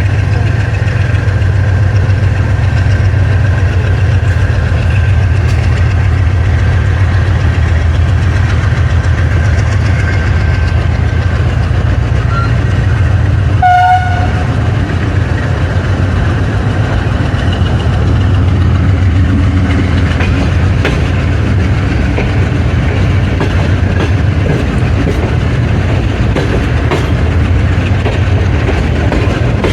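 AGE30 'Blue Tiger' diesel-electric locomotive chugging steadily at the head of a moving passenger train, heard from a coach behind it along with the running of the train. A short tone sounds about halfway through.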